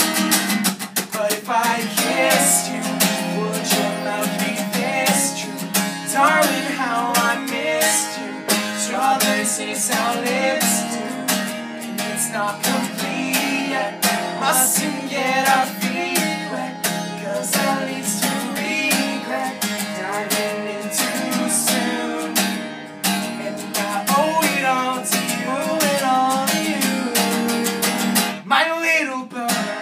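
Acoustic guitar strummed steadily, playing a song's accompaniment, with melodic lines over the chords.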